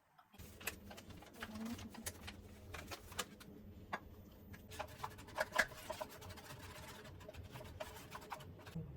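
Quiet, scattered light clicks and taps of small objects being handled, a couple of them sharper about halfway through, over a faint steady background hum.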